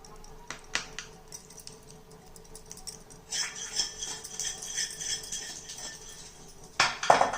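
A utensil scraping across a greased plate as thick barfi mixture is spread flat: a few light taps, then a few seconds of steady scraping, and a louder knock near the end.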